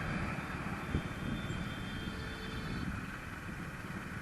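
Passion Pro motorcycle on the move, its engine and road noise mixed with a steady low wind rumble on the microphone.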